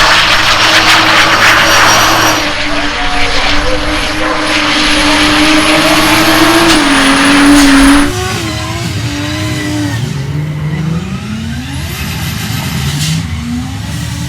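Toyota Supra Mk4's 2JZ inline-six held at high, steady revs under loud tyre noise in a drift. About eight seconds in, it cuts suddenly to a quieter stretch of the engine revving up and down.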